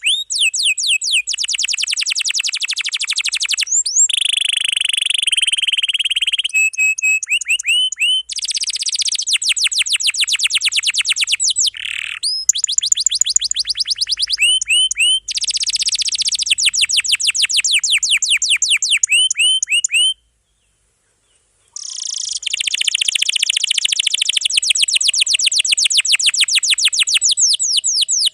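Domestic canary singing in long, fast rolls: rapid trains of repeated short high notes, one tour running straight into the next. The song stops briefly for about a second and a half near the two-thirds mark, then resumes.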